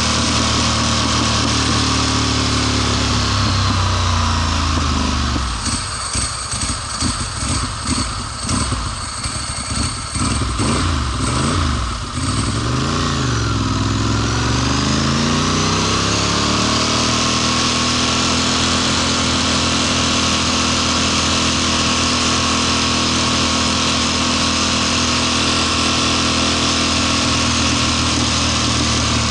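Ducati Monster S4 L-twin engine running under way with heavy wind noise. Partway through it drops and runs rough and uneven for several seconds, then the revs climb back and it runs steady. This is the kind of sputtering the owner is trying to diagnose after recent electrical work.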